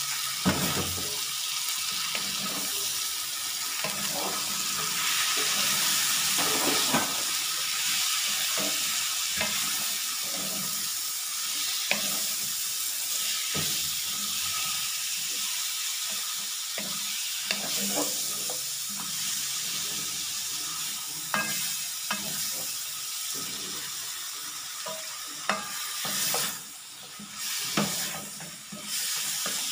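Sliced unripe jackfruit and pork belly sizzling in hot oil in a wok, stirred with a wooden spatula that scrapes and knocks against the pan now and then. The sizzle is steady, easing briefly a few times near the end.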